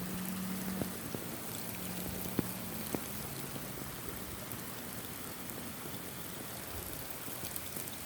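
Steady rain falling, with a few sharp drop hits close by. A faint low drone fades out about three seconds in.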